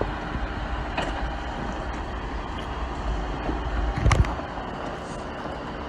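Off-road vehicle's engine running steadily at low revs while crawling over rock. A single sharp knock with a low thump sounds about four seconds in.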